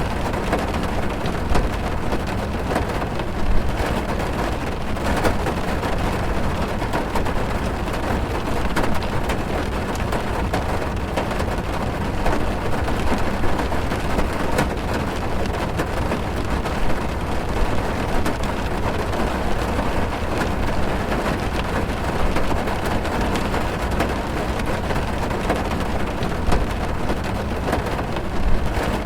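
Heavy rain falling on a car's roof and windows, heard from inside the cabin: a dense, steady patter of many small drop hits over a low rumble.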